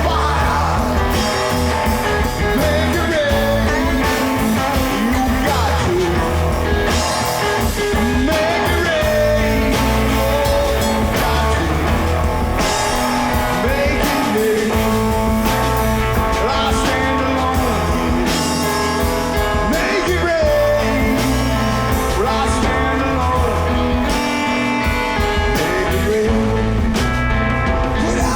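Live band playing a slow blues-rock song with no vocals, lead guitar soloing with bent notes over bass and drums.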